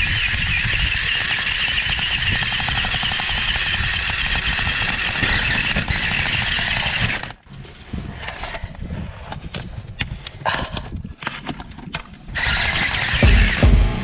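RC 4x4 buggy's motor and gears whining steadily at speed as it drives, heard from a camera mounted on the car. The whine cuts out about seven seconds in, leaving scattered clicks and rattles, then returns briefly near the end with a heavy low thump.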